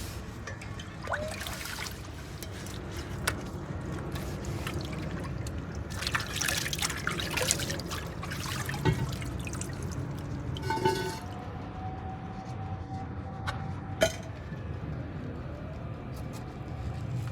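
Liquid trickling and dripping, with scattered clicks and knocks of handling.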